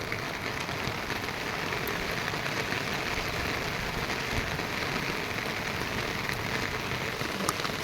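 Steady monsoon rain falling, with a few sharper single drops standing out, one near the end.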